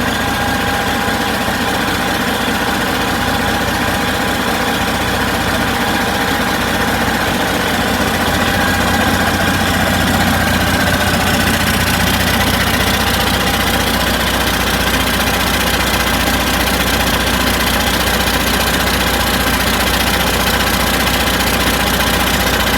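Detroit Diesel DD15 14.8-litre inline-six diesel engine idling steadily, growing a little louder about eight seconds in.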